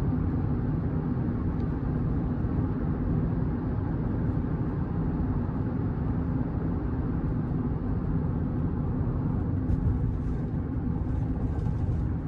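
Steady low rumble of a kei car on the move, with engine and road noise heard from inside the cabin and a few faint ticks near the end.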